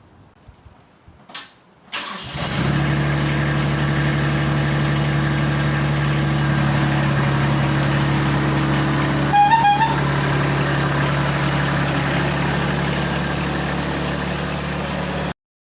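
Kubota B2601 compact tractor's diesel engine starting about two seconds in, after a click, and then running steadily. About halfway through, the horn gives a couple of short beeps, and the sound cuts off suddenly near the end.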